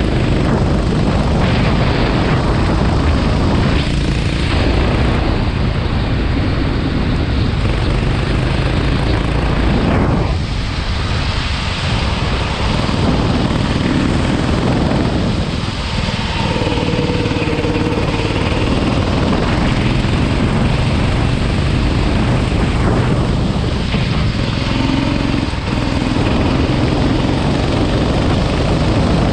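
Kart engine running hard on a wet track, with wind and spray noise over it. The sound eases off briefly about three times, about a third of the way in, halfway through and near the end, then picks up again.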